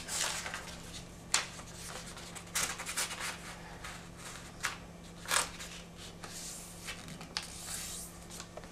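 Origami paper being folded and creased by hand: intermittent soft crinkles and sharp rustling crackles as the sheet is folded diagonally and the folds are pressed flat.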